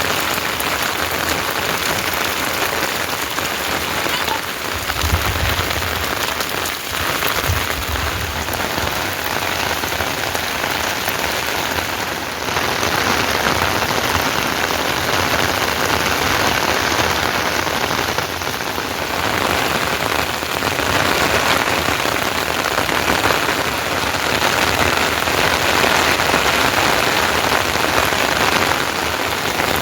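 Steady monsoon rain falling, an even hiss of dense drops, growing a little louder about twelve seconds in. A brief low rumble comes about five seconds in.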